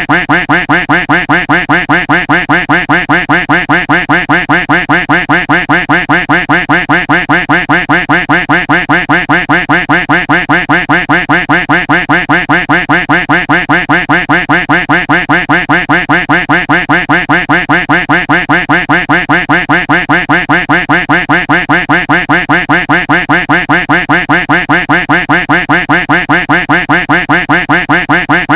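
A duck quack sound effect looped without a pause, one quack after another at about five a second.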